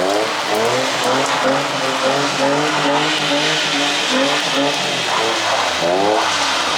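Car engine revving hard, its pitch climbing and dropping again and again as it is pushed through a drift run, with a steady hiss of spray and tyre noise on wet pavement underneath.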